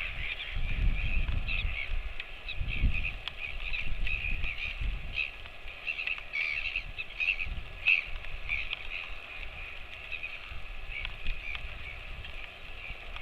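Many birds calling at once in a continuous dense chatter of short, high calls, with intermittent low rumbling underneath, strongest in the first half.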